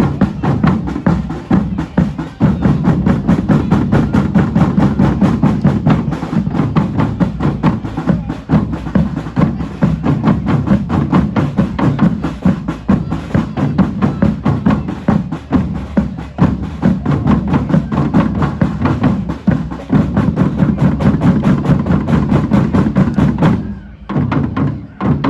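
A drum band playing a fast, driving rhythm together, with deep bass drums under rapid, evenly spaced strokes. The playing stops abruptly about a second before the end, leaving a few scattered hits.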